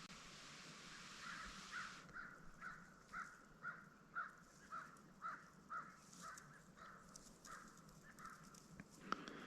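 Faint bird calls repeated evenly about twice a second, some fourteen in a row, over a steady hiss that stops about two seconds in. A single sharp click sounds near the end.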